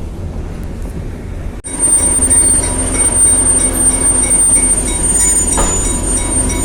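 Passenger train rolling along the track, a steady low rumble, with a thin high wheel squeal holding steady. The sound jumps louder about one and a half seconds in.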